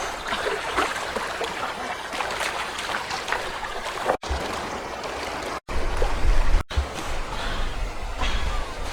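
River water running and trickling, a steady rushing noise. The sound cuts out three times for a split second in the middle, and a low rumble joins after the first cut-out.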